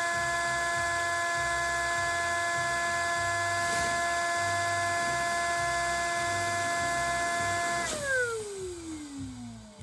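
Small electric air pump running with a steady high whine while inflating something; about eight seconds in it is switched off and winds down, its pitch falling away.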